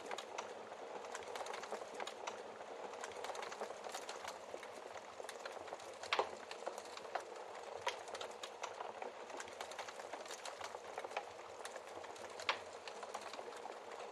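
Wood fire crackling: a steady hiss with many small crackles, and two louder pops, about six seconds in and again near the end.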